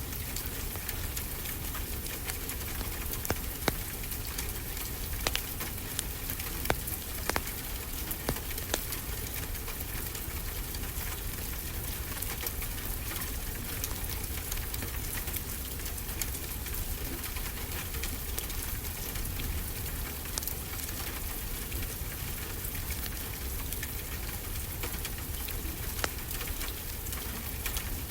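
Wood fire crackling, with a run of sharp pops a few seconds in and another near the end, over a steady rushing wash of ocean waves.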